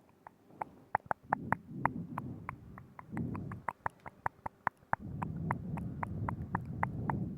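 Close-up ASMR mouth sounds: quick, wet tongue-and-lip clicks, several a second, with a low muffled rumble in stretches between them.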